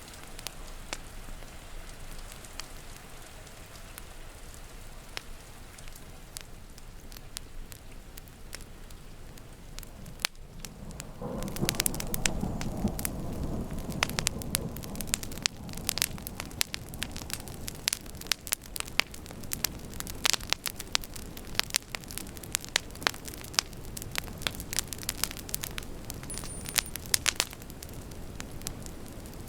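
Steady rain for about the first ten seconds, then a wood fire comes to the fore with dense crackling and popping of burning logs. A low rumble sounds for a few seconds as the fire sound begins.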